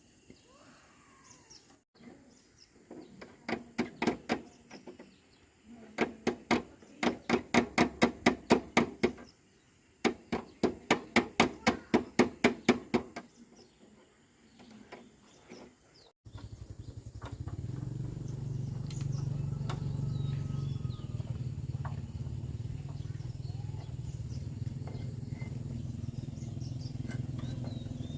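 Three runs of sharp, even knocks, about five a second. After an abrupt cut, a steady low mechanical hum starts and keeps running, like a motor.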